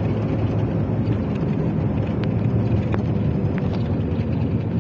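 Steady low rumble of a running motor vehicle, with a few faint short high chirps a couple of seconds in.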